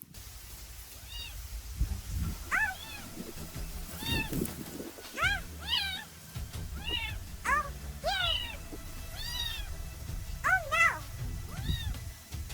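Kitten mewing over and over: more than a dozen short, high calls, each rising and then falling in pitch.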